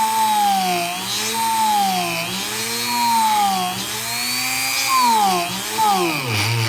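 Dremel rotary tool drilling through carbon fiber: a high motor whine that sags in pitch and recovers over and over as the bit bites into the sheet, with a deeper dip near the end.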